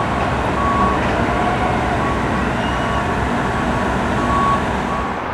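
Backup alarm on a heavy construction vehicle beeping at a steady pitch, about once a second, over the vehicle's engine running, as it reverses.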